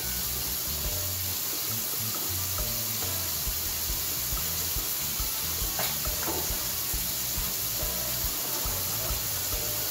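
Chicken legs frying in hot oil in an uncovered pot: a steady sizzle, with a couple of faint clicks about six seconds in.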